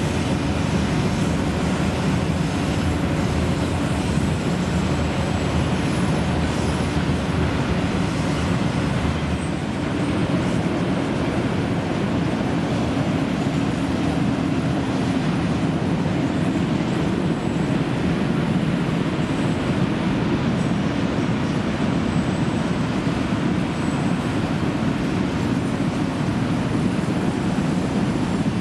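Autorack freight cars of a passing train rolling by: the steady noise of steel wheels running on the rails, unchanging throughout.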